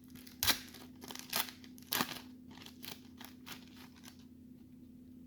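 Wrapper of a baseball card pack crinkling as it is opened and the cards are handled. A few sharp crackles come in the first two seconds, then smaller ones that die away after about four seconds.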